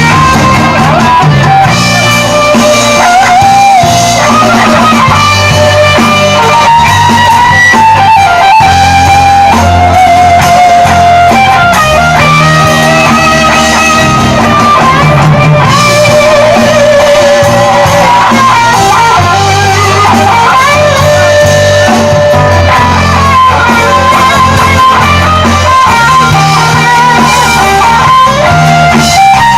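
Live rock band playing an instrumental passage: a lead electric guitar line with bent, wavering notes over bass and drums.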